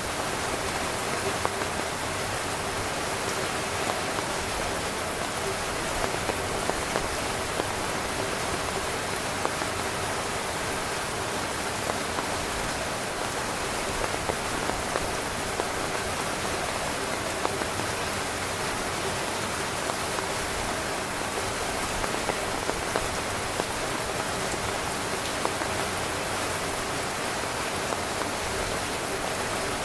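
Heavy rain drumming on a tent's fabric: a steady dense hiss with many individual drops pattering close by.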